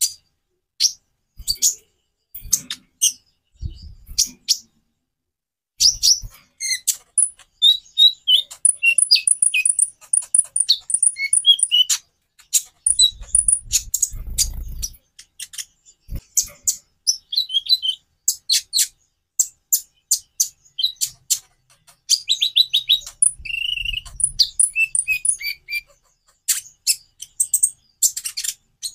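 Konin (kolibri ninja) sunbird singing: rapid, high-pitched chirps and quick twittering trills in bursts with short pauses. A few low thumps are heard under the song.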